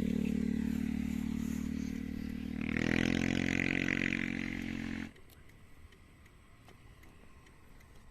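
Yamaha Sniper 150's single-cylinder engine running steadily, then revving up about three seconds in. The sound cuts off abruptly about five seconds in, leaving faint background noise.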